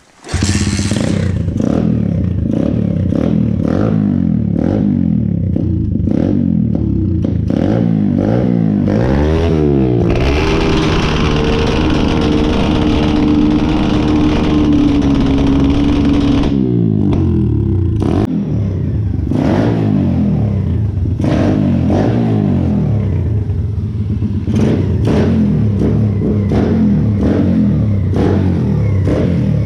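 Stomp 120R pit bike's single-cylinder four-stroke engine starting up and running loud. It is revved up and down, held at high revs for about six seconds near the middle, then drops back and is blipped unevenly.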